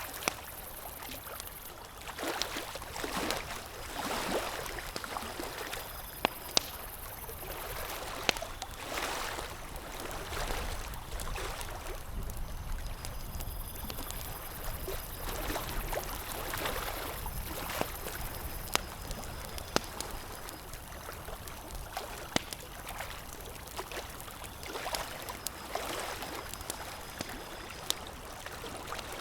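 Campfire crackling, with scattered sharp pops over a rushing wash that swells and fades every few seconds.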